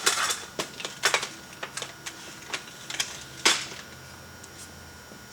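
Irregular sharp clicks and knocks from something being handled, about half a dozen in all, the loudest about three and a half seconds in, over a faint steady hum.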